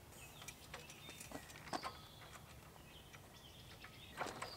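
Faint outdoor ambience of birds chirping on and off, with a few soft clicks, a couple about two seconds in and a slightly louder one near the end.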